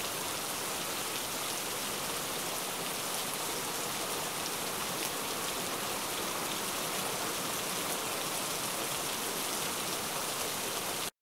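Rain falling steadily on wet stone paving: a dense, even hiss with fine spattering drops.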